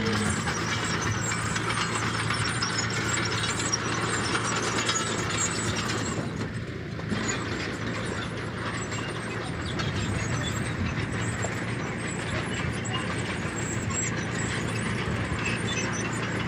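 Crawler bulldozer's diesel engine running steadily under the continuous clatter and rattle of its steel tracks and blade working soil, with a brief lull about six and a half seconds in.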